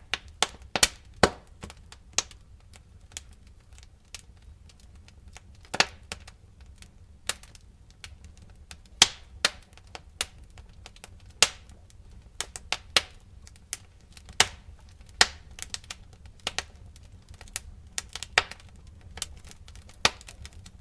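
Wood fire crackling: irregular sharp pops and snaps, a few a second, over a low steady rumble of the burning.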